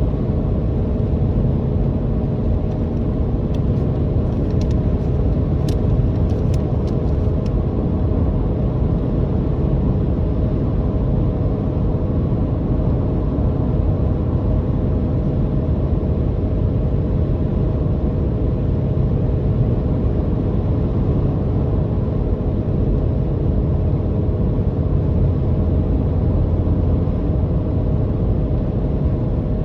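Car engine droning steadily with road rumble while driving at a constant pace, with a few faint ticks a few seconds in.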